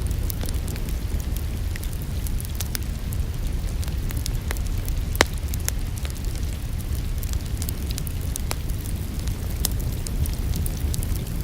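Crackling wood fire in a fireplace: irregular sharp pops and snaps, one louder pop about five seconds in, over a steady low rumble.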